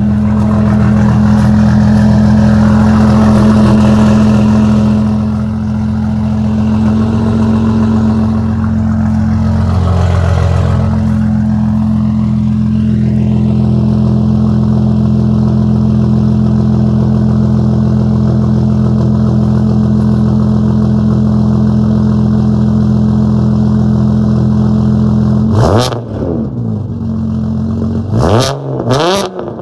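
BMW 335i's N54 inline-six, converted to a single turbo and tuned to skip the cold-start high idle, idling steadily just after a cold start. Near the end the engine is revved briefly a few times, the pitch rising and falling quickly.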